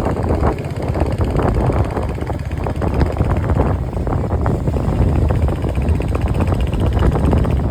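Wind buffeting the microphone on a moving motorcycle, a loud, steady, rough rumble with the bike's running engine underneath.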